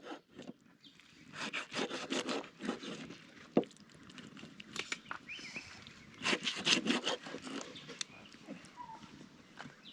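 A knife chopping fish on a wooden board, in two bursts of quick strokes with a single sharp knock between them, as the fish is finely chopped. A few faint chirps in the background.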